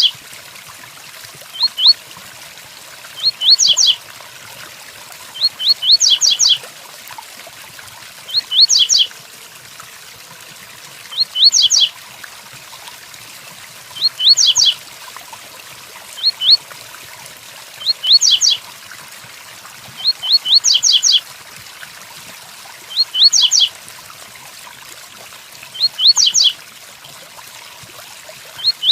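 Double-collared seedeater (coleiro) singing its 'tui-tuí' song: short, high phrases of a few quick notes, repeated about every two and a half seconds. The song sits over a steady hiss of rain.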